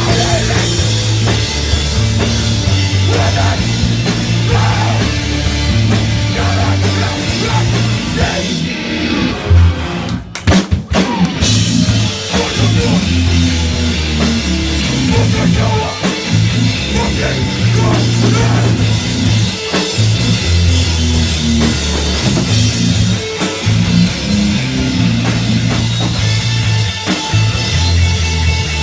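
Live rock band playing loud and fast, with drum kit, distorted electric guitar and bass. About ten seconds in the band stops briefly on a few sharp hits, then comes back in.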